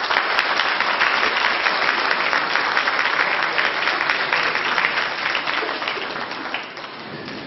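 Concert audience applauding in a hall after a choral piece ends, the clapping starting abruptly and thinning a little near the end.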